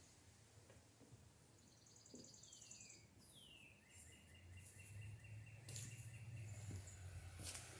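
Faint bird song: a few quick high notes, then downward-slurred calls leading into a trill of repeated notes, over a low hum that grows from about four seconds in.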